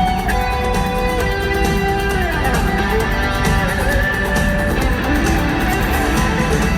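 Live rock band playing an instrumental passage: an electric guitar lead with held notes and pitch slides over bass and drums, heard through an arena's sound system.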